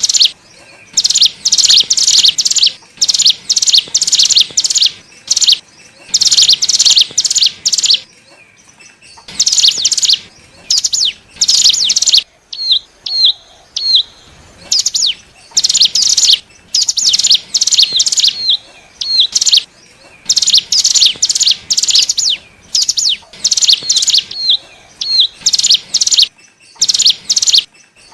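Ciblek gunung (cigun) prinia calling as a lure call: repeated bursts of fast, high chattering notes, each about a second long, with short pauses and a few single hooked notes between them.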